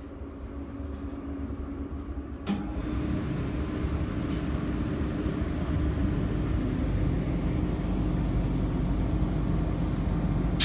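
Electric train heard from inside the carriage: running rumble with a steady hum, getting louder over the first several seconds, with a single knock about two and a half seconds in.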